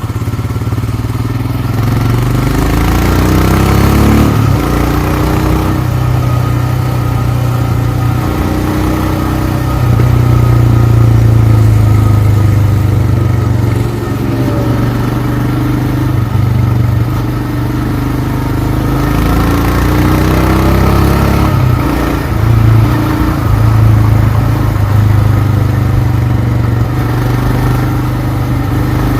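Royal Enfield Himalayan's 411 cc single-cylinder engine running under way. It rises in pitch as the bike accelerates and drops at gear changes, about four seconds in and again near twenty-two seconds.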